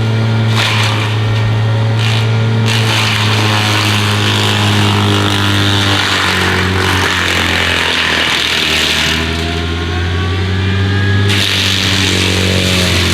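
Takeuchi TB260 mini-excavator's diesel engine running hard while its DENIS CIMAF DAH-065B hydraulic forestry mulcher head spins and cuts, with a loud rushing noise that comes and goes as the head works through vegetation. The machine's pitch slides up and down in the second half.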